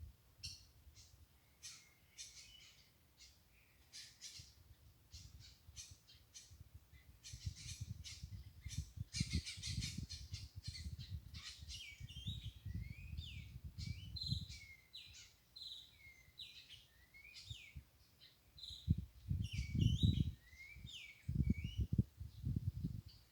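Small birds chirping and calling repeatedly, with a run of short downward-sliding calls in the second half. Under them are dull low thumps and rumbling, loudest about twenty seconds in.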